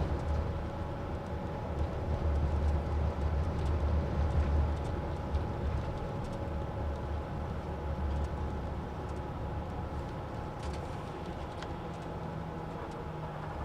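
A rail-replacement bus's engine and road noise heard from inside the cabin as it drives between stations: a steady low drone that eases slightly in the second half.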